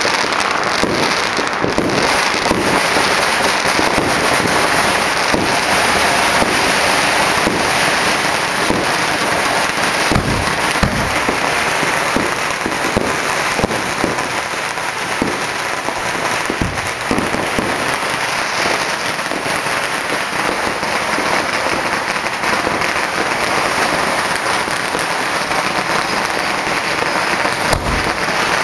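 Many firecrackers and fireworks going off at once in a dense, continuous crackle, with several louder bangs scattered through it.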